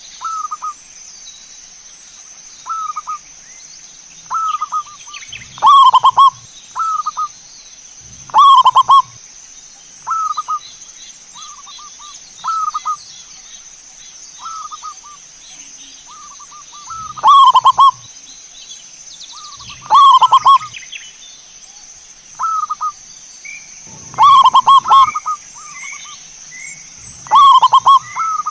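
Zebra dove (perkutut) cooing over and over: short, rolling coo phrases every second or two, about six of them much louder and distorting at their peaks. A steady high-pitched tone runs underneath, and a smaller bird chirps faintly near the end.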